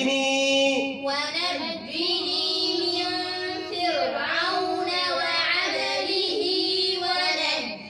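A group of children reciting the Quran in chorus, repeating a verse after the teacher in long, drawn-out melodic phrases.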